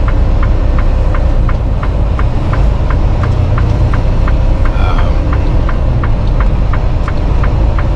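Inside a Freightliner semi-truck's cab: steady low engine and road rumble, with a turn signal ticking evenly about three times a second.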